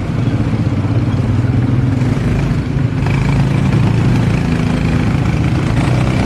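A motor vehicle engine running steadily, a loud, even low hum.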